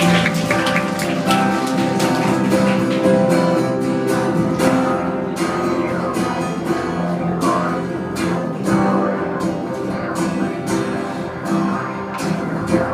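Acoustic guitar playing an instrumental passage of a song, strummed and plucked chords over held notes, with no singing.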